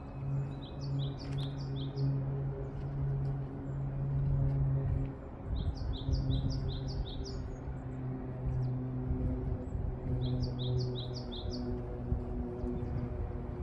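A small songbird singing three short phrases, each a quick run of six or seven high chirps, a few seconds apart. Underneath runs a steady low rumbling hum.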